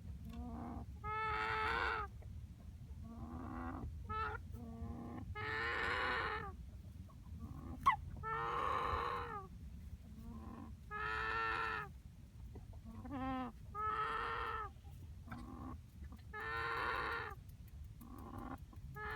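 Young Silkie cockerel calling over and over: drawn-out, wavering, pitched calls about a second long, one every two to three seconds, with shorter, lower notes between them. A single sharp click sounds about eight seconds in.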